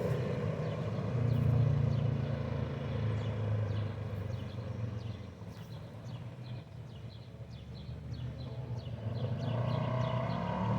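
Polaris RZR side-by-side's engine running under way, its level dropping off about five seconds in and building again near the end.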